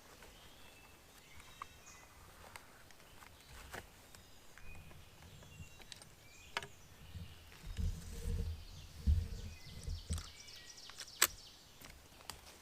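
Quiet spring woodland with faint, scattered songbird chirps. A cluster of low thumps and rustles comes about eight to ten seconds in, and a single sharp click comes near the end.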